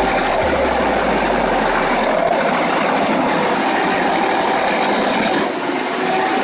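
Heavy wood-processing machinery running under load: a loud, steady, dense mechanical noise with a faint steady whine in it. The sound drops slightly and changes near the end.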